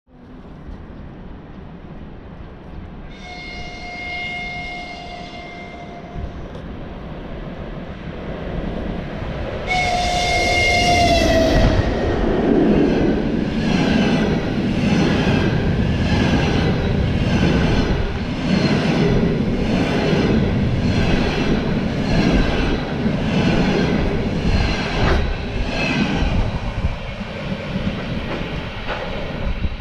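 2ES4K electric locomotive sounding its horn twice as it approaches, the second blast dropping in pitch as it passes. Then the double-deck passenger cars roll by with a steady rhythmic clatter of wheels on the rails, a little over one clack a second, fading as the train moves away near the end.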